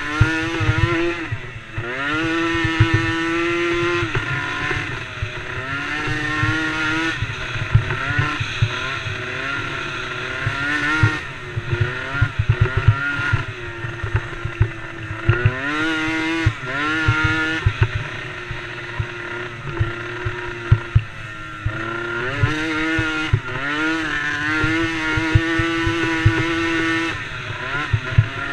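DRR DRX90 youth ATV engine racing, its pitch climbing and dropping again and again as the throttle is worked through corners and straights, at times held steady for a few seconds. Irregular low knocks and rumble run underneath.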